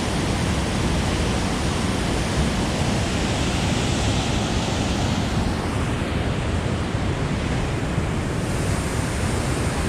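Loud, steady rushing of white water released through dam flood gates and pouring over rocks, with some wind on the microphone.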